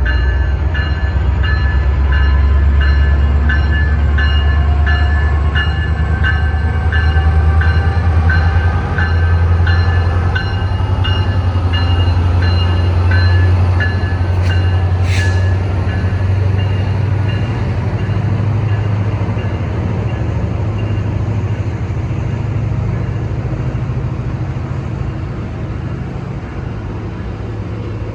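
Diesel-hauled passenger train rumbling past with a deep, steady engine drone, while a bell dings about twice a second and fades out about halfway through. A faint high whine rises slowly, and one short sharp noise comes just past the middle.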